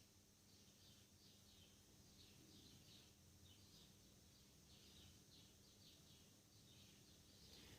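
Near silence: faint, short high bird chirps repeating about twice a second over a faint low hum.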